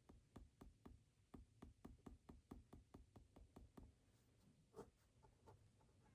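Faint, quick run of light clicks of keys being pressed on an electronic calculator, about four a second, while figures are entered; after a short pause one firmer key press comes near the end.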